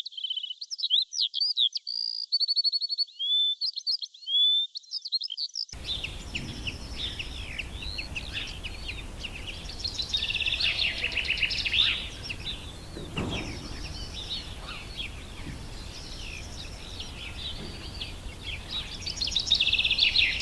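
A songbird singing a quick run of varied whistles and trills. About six seconds in it switches abruptly to many small birds chirping and twittering together over a steady background hiss, busiest near the end.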